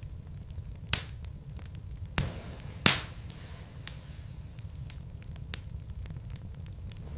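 Wood logs burning in a fireplace: a steady low rumble with scattered small crackles and a few sharp pops, the loudest about three seconds in.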